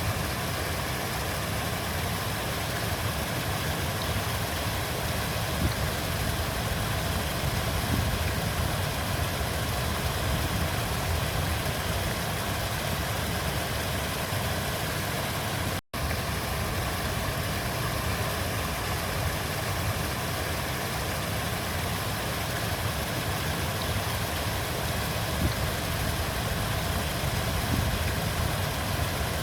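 River water flowing steadily, a continuous rushing with a deep low rumble. The sound cuts out for an instant about halfway through, then carries on unchanged.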